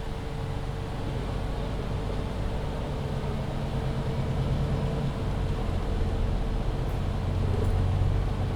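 MAN Lion's City EfficientHybrid articulated city bus's diesel engine running on the move, with a steady high whine over its low drone. The engine note steps down in pitch about five seconds in, and the sound grows louder toward the end.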